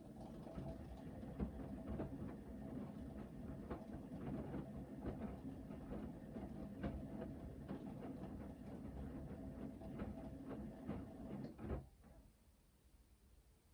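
Hoover VHD 9163 ZI washing machine in its main wash, the drum tumbling for about twelve seconds: a steady motor hum with the knocking and swishing of wet laundry falling in the drum, stopping with a knock near the end as the drum pauses.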